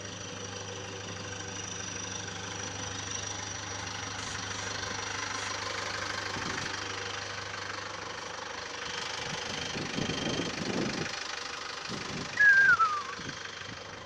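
A steady low engine rumble, like traffic or an idling vehicle. Near the end comes a short, loud squeal that falls in pitch.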